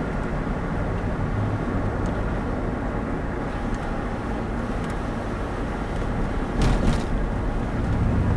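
Chevrolet Tahoe driving, heard from inside the cab: steady engine and road noise, with a short cluster of clicks or knocks about two-thirds of the way through.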